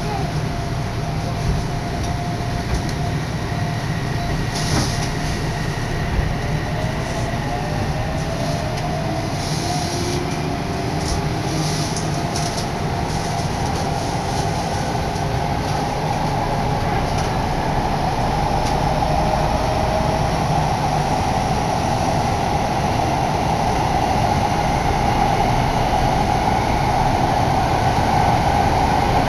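Odakyu Odawara Line electric commuter train heard from inside the car as it pulls away and speeds up through an underground tunnel. The motor whine rises in pitch about a third of the way in, and the running noise grows steadily louder, with a couple of clicks from the wheels on the track.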